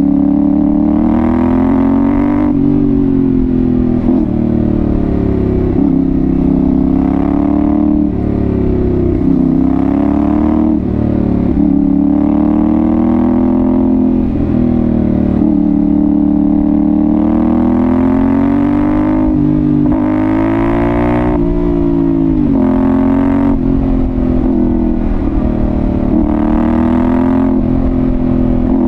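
Yamaha Ténéré 700's CP2 parallel-twin engine breathing through an aftermarket Dominator GP1 exhaust, pulling through the gears: its pitch rises and falls over and over as the throttle is opened and closed, with a few sudden drops along the way.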